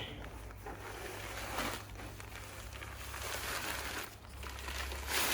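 Ballast, a mix of sand and pebbles, pouring out of a bag into a wheelbarrow: a rushing hiss that swells in the middle, with a knock near the start and another near the end.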